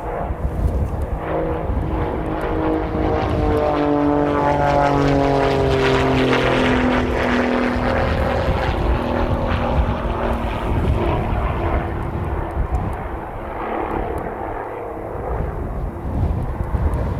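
Boeing 767 jet engines passing by, their whine sliding down in pitch from about three seconds in, over low rumbling wind noise on the microphone.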